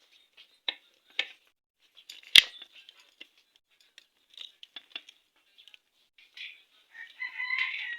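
Metal engine parts clicking and knocking as a kick-start shaft is fitted into a Honda Shine motorcycle engine case, with one sharp knock about two and a half seconds in and a denser clatter near the end.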